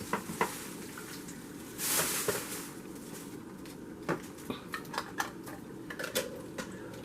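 A can of sweet peas being drained: a short rush of pouring liquid about two seconds in, with scattered light clinks and knocks of the metal can and kitchenware.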